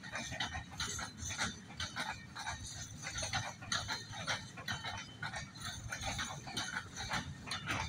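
Freight train of loaded container flat wagons rolling slowly past, with a low rumble under a run of irregular clanks, clicks and high squeaks from the wheels and wagons.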